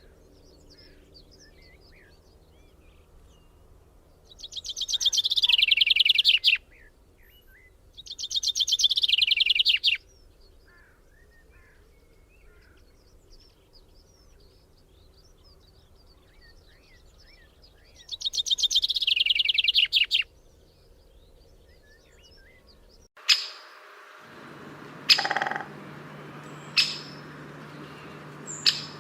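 Songbird singing: three loud, rapid trills of about two seconds each, each falling in pitch, with faint chirps in between. Near the end the sound changes abruptly to a low hum broken by a few sharp, short clicks or calls.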